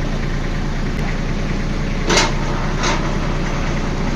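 Captain 8G 283 mini tractor's three-cylinder diesel engine running steadily, with two sharp clicks or knocks, one a little after two seconds in and one near three seconds.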